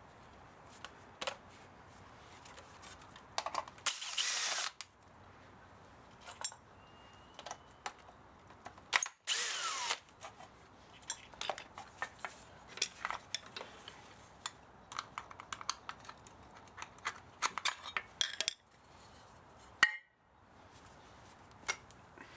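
Power drill run in two short bursts, its whine falling in pitch as it spins down each time, amid many clicks and taps of metal parts being handled.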